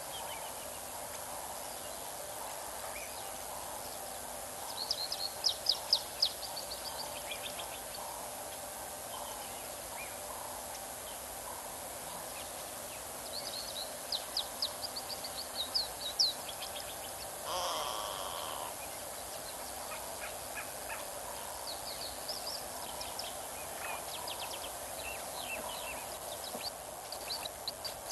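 A bird calling in four short bursts of rapid high notes, several seconds apart, over a steady outdoor hiss; a brief, different call breaks in about two-thirds of the way through.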